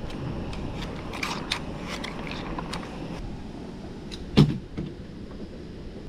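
A hiker walking with a backpack: footsteps and a run of small clicks and creaks from gear, with one loud thump about four and a half seconds in.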